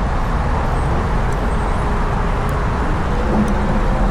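Steady wind and road noise while riding a motorcycle through city traffic.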